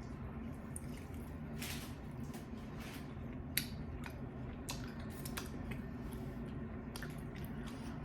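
Close-miked eating sounds: irregular wet smacks and sharp little clicks of chewing a chicken wing, over a steady low hum.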